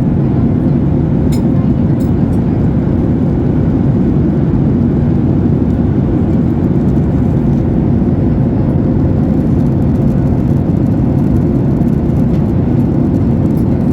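Steady, loud rumble of a Boeing 737-8200's CFM LEAP-1B jet engines and rushing air, heard from inside the passenger cabin, with a faint constant whine.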